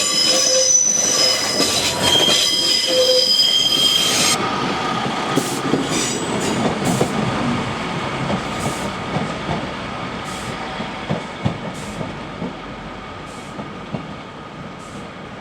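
Class 142 Pacer diesel train's wheels squealing in several high steady tones on the curve; the squeal cuts off about four seconds in. After that the train rumbles on with scattered clicks, fading steadily as it moves away.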